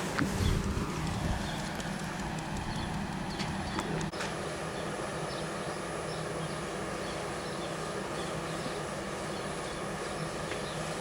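Steady road and engine noise inside a moving car, with a low drone and faint light ticking over it.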